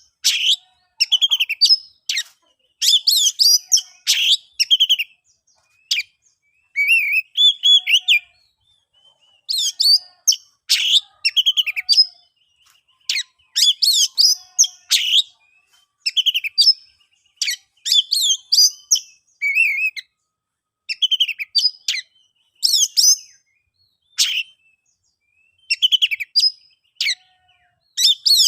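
Oriental magpie-robin (kacer) singing: short, varied phrases of quick whistled notes, each about a second long, repeated after brief pauses.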